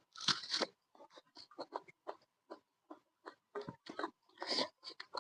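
A person chewing food close to the microphone: a run of short, irregular chewing sounds, the loudest about half a second in.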